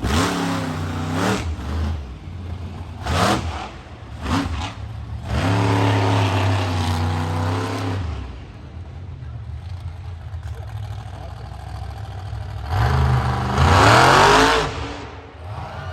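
Monster truck engine revving hard in repeated blips. Longer, higher revs come around six seconds in and again near the end, with the pitch climbing and falling.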